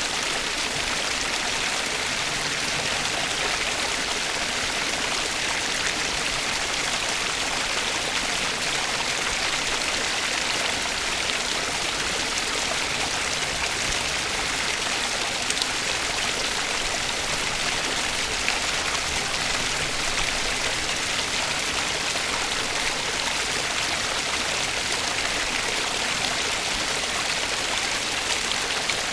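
Flowing water: a stream rushing steadily, an even hiss with no change.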